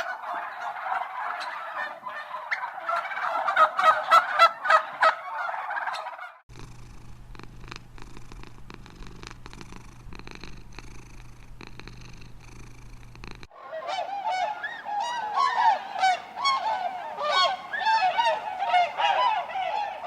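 A flock of poultry calling over one another in a dense chorus. For about seven seconds in the middle it cuts to a steady low hum with scattered clicks, then the flock calling comes back.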